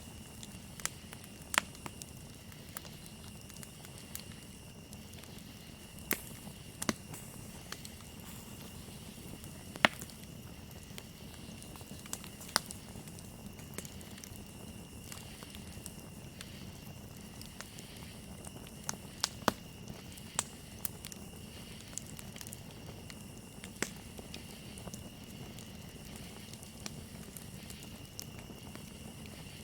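Wood campfire crackling with sharp, irregular pops, the loudest about ten seconds in and a quick cluster near twenty seconds, over a steady high cricket trill.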